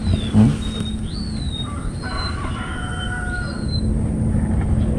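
Birds calling: short whistled chirps and, about two seconds in, one long drawn-out call lasting over a second. A brief low thump comes just after the start, and a steady low rumble runs underneath.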